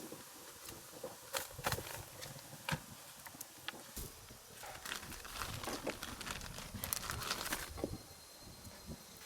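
Irregular knocks, clicks and rustling of objects being handled, busiest in the middle seconds.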